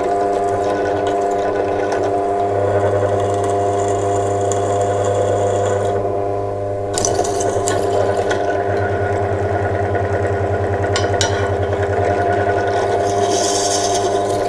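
A handheld power tool running continuously with a steady buzz, dipping briefly about six seconds in, with a few sharp clicks and scrapes over it.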